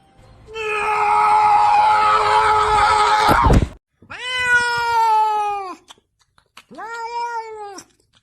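A cat yowling: one long, harsh drawn-out call of about three seconds, then two shorter meows about a second and a half apart.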